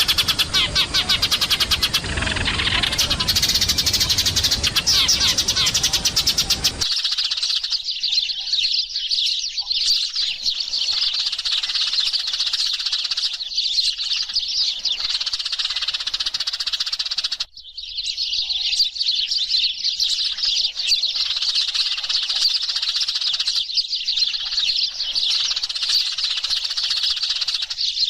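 Eurasian tree sparrows chattering noisily, a dense, unbroken stream of chirps from a flock, played as a lure call. For the first seven seconds a low rumbling noise runs under the chirping, and there is a short break about 17 seconds in.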